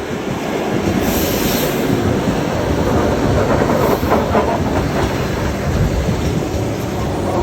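ER2 electric multiple unit running past, loud, with the wheels clacking over the rail joints in quick clusters about halfway through.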